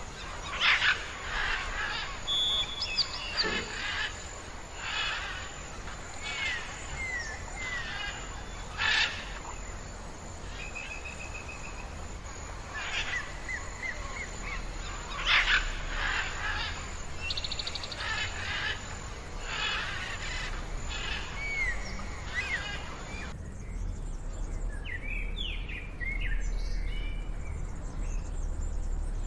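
Wild birds calling and singing: repeated short chirps, curved whistled notes and brief trills, several birds at once. About two-thirds through the birdsong changes abruptly to fainter, scattered chirps.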